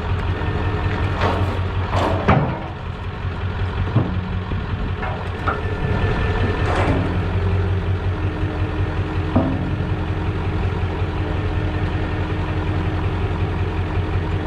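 Engine idling steadily, with several sharp metallic knocks and clanks in the first half.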